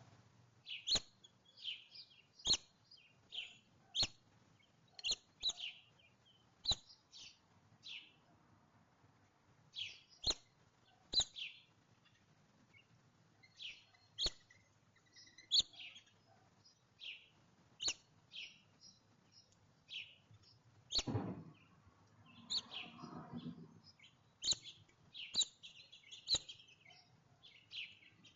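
Small songbirds at a feeder chirping in short, repeated calls, with sharp clicks mixed in. A louder thump comes about three-quarters of the way through, followed by brief rustling.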